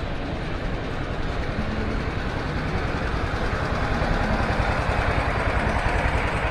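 City street traffic noise with a vehicle engine running close by, growing louder over the second half.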